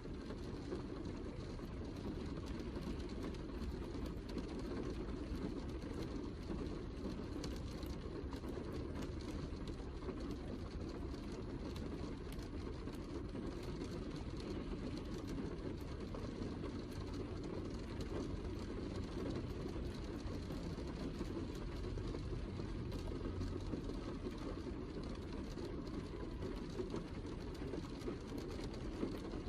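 Steady heavy rain, muffled to a low, even rumble without single drops standing out.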